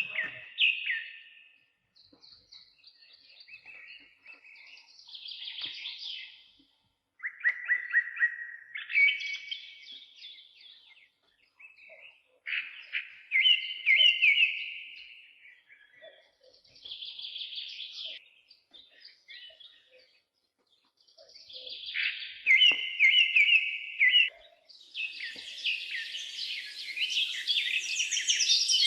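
Songbird singing: short phrases of chirps and quick trills, repeated with brief pauses between them. A denser, fuller chorus of high sound builds in near the end.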